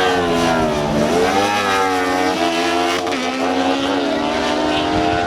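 Inline-four sport-bike engines accelerating hard through the gears in a drag race, the pitch climbing, dropping at each upshift and climbing again, several times.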